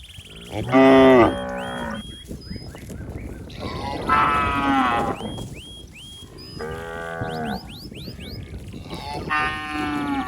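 Cattle mooing: four long, drawn-out calls a couple of seconds apart, the first the loudest. This is a young cow calling out for its mother.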